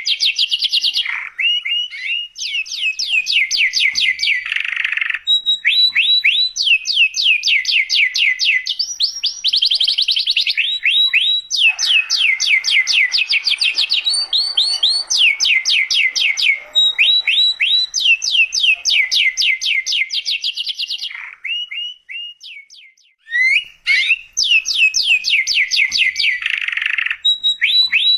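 Domestic canary singing a long, loud song made of fast trills, each phrase a rapid run of one repeated note before it switches to the next. There is a short break about six seconds before the end, and then the song resumes.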